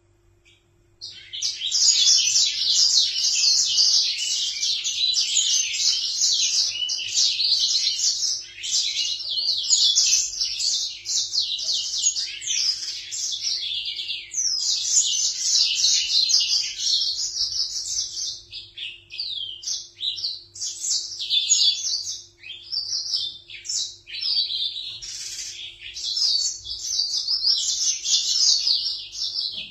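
Small seed-eating songbirds chirping and twittering in a dense, rapid, almost unbroken stream of high notes, starting about a second in.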